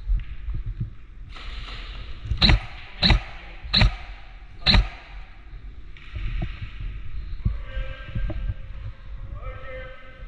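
Airsoft gun firing four single shots, sharp pops spaced under a second apart, close to the microphone. Low rumble of movement and handling runs underneath.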